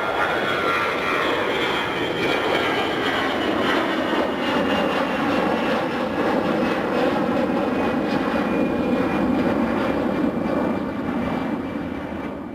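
Jet airliner's engines passing close by: a high whine slides down in pitch over the first few seconds, then a steady, deep engine noise that fades near the end.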